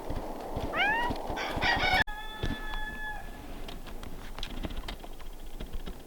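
Animal calls: a short rising call about a second in, then, after an abrupt cut, one steady call lasting about a second. Scattered soft clicks and taps run underneath.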